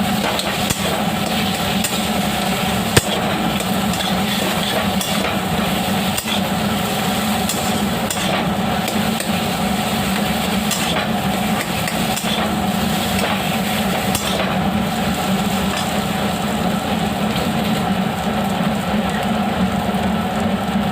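A metal spatula stirring and pressing a spiced mashed-potato filling in a karahi, with scraping and occasional knocks against the pan, one sharper knock about three seconds in. A steady low hum runs underneath.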